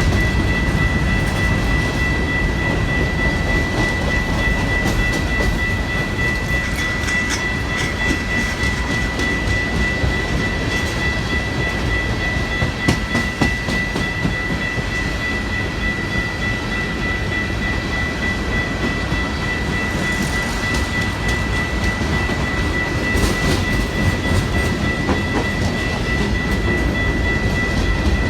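A train rolling past at close range: a steady heavy rumble of wheels on rail with scattered clicks, and a steady high-pitched whine over it.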